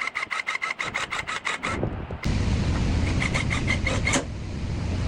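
Rapid, even strokes of a hand tool working on the machine, about seven a second, with a brief break just before two seconds in. A steady low running noise then starts, and a second shorter run of strokes plays over it.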